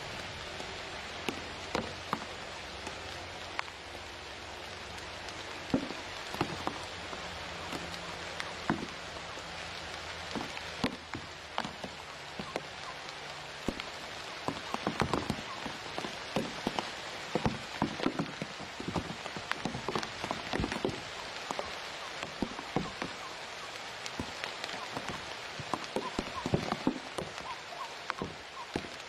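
Rain falling, with many irregular drop ticks over a steady hiss; the drops come thicker in the second half.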